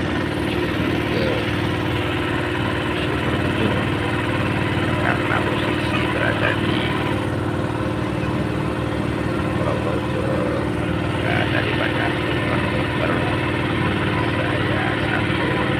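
Small ferry boat's engine running at a steady speed, a continuous drone with an even firing rhythm.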